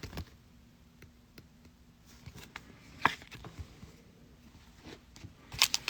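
Light clicks and taps of trading cards being handled and set down, with a short burst of foil pack-wrapper crinkling just before the end.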